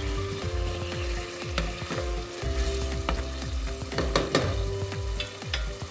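Canned tuna with garlic and onion sizzling in oil in an aluminium pot while a wooden spoon stirs it, scraping and knocking against the pot a few times.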